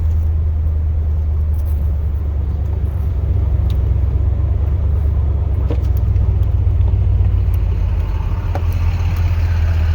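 Steady low rumble of a 2002 Chevrolet Silverado plow truck driving, heard inside the cab: its 8.1-litre big-block gas V8 running along with road noise. A faint whine comes in near the end.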